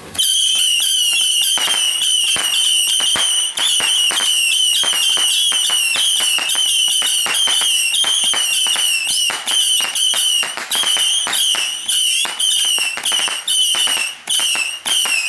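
A whistling firework: a shrill, wavering whistle starts abruptly and sounds almost continuously, peppered with crackling pops. In the last few seconds it breaks into short, stuttering whistles.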